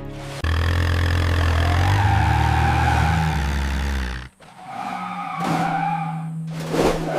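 Cartoon vehicle sound effects: a low engine hum starts suddenly about half a second in and runs steadily for about four seconds, cuts out, then gives way to a wavering higher squeal like tyres skidding.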